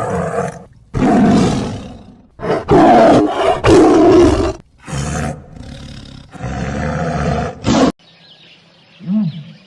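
A big cat roaring: several loud, rough roars and growls one after another, ending abruptly about eight seconds in, followed by a quieter stretch with one short call.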